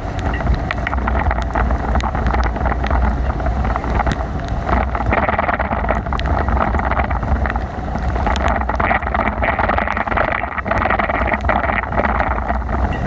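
Wind buffeting the microphone of a bicycle ride in heavy rain, with a steady wet hiss and many small ticks throughout.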